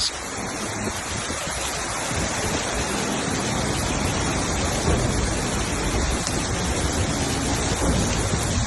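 Steady, loud rush of water, heavy rain or flowing floodwater, with no break or change.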